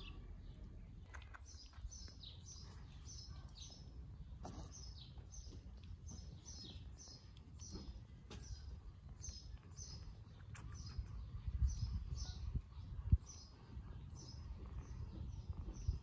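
A small bird chirping over and over: short, high, falling chirps about two or three a second, with one sharp low thump near the end.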